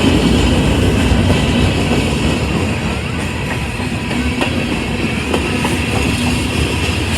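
Freight train rolling past, a steady rumble of wheels on rail with scattered light clicks.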